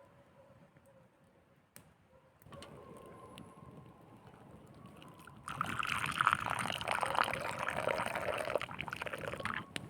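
Liquid, most likely tea from the campfire, pouring steadily into a cup for about four seconds. It starts suddenly after a quiet stretch with a few faint ticks and stops sharply near the end.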